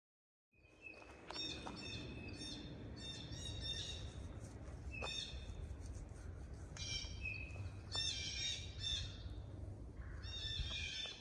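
Birds calling in quick runs of repeated notes, starting about half a second in, over a steady low rumble.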